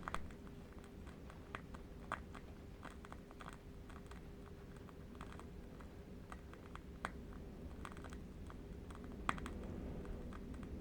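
Candle wick crackling faintly: scattered, irregular small clicks, one sharper near the end, over a soft steady low rumble of distant wind.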